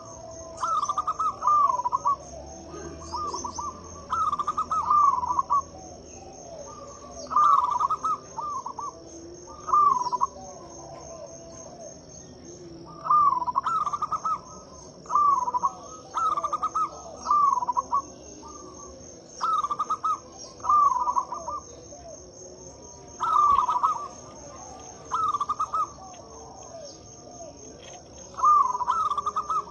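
Zebra dove (perkutut) cooing in loud, repeated phrases of several rolling notes, a phrase every two to three seconds. Fainter cooing runs underneath, with a steady high insect-like trill behind it.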